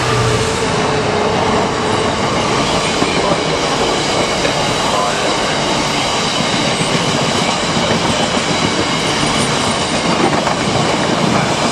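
A freight train of empty bogie stone hopper wagons rolling steadily past at speed behind a Class 66 diesel locomotive, which goes by just as it starts. A continuous clatter of wheels over the rails.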